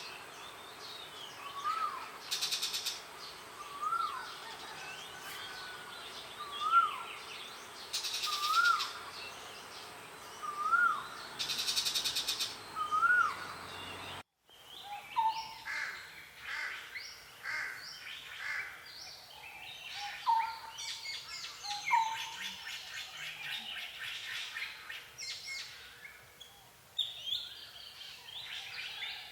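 Wild birds singing. For the first half, one bird repeats a short whistled note that rises and falls, about every two seconds, over a few loud buzzing bursts. Then an abrupt cut leads to a busier chorus of mixed chirps and calls.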